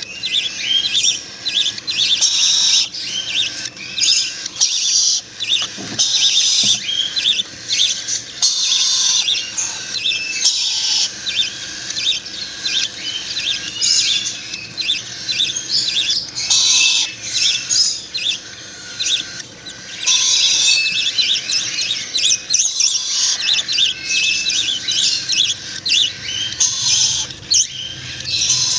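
Bird chicks chirping shrilly and without pause, the high-pitched begging calls of young birds being hand-fed porridge.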